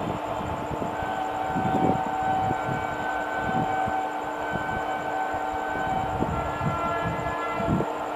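An Indian Railways express train hauled by an electric locomotive running past, its wheels knocking irregularly over the rail joints. Steady whining tones run over the clatter and change to a different set of pitches about six seconds in.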